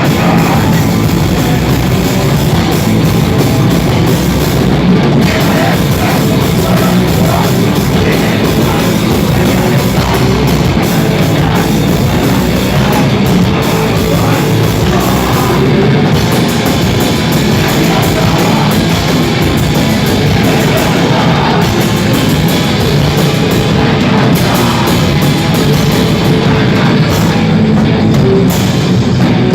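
Loud southern rock music: a full band with drum kit, playing steadily without a break.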